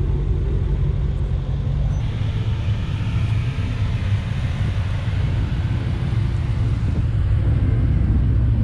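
Nissan GT-R sports cars driving slowly in at low revs, their engines rumbling steadily, with some added tyre and exhaust noise for a few seconds in the middle.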